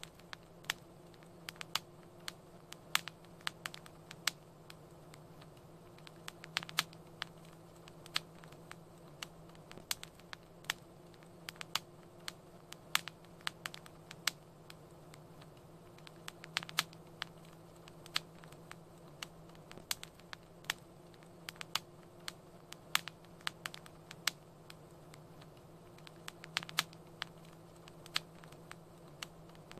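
Wood fire crackling: irregular sharp pops and snaps, several a second at times, over a faint steady low hum.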